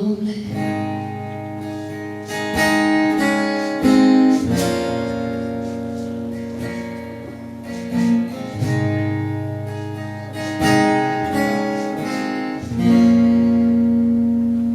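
Live acoustic guitar accompaniment playing the closing chords of a country song with no vocal, each chord struck and left to ring over a steady bass.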